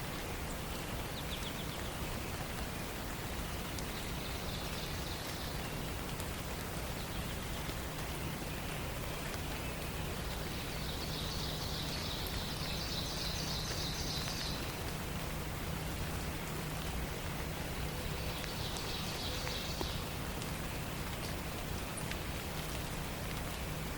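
Forest dawn ambience: a steady even hiss, with a songbird's high, rapid trill heard three times. The first is brief, about four seconds in, the second lasts about four seconds around the middle, and the third comes about three-quarters of the way through.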